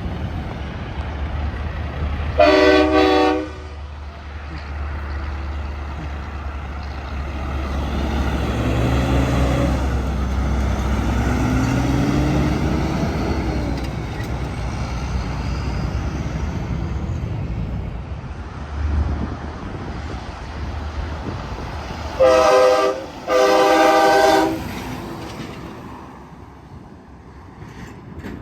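Semi-trucks passing on an interstate, their engines and tyres making a steady rushing drone with a passing engine note gliding up and down in the middle. A truck air horn sounds one short blast a couple of seconds in, and two more back-to-back blasts come near the end.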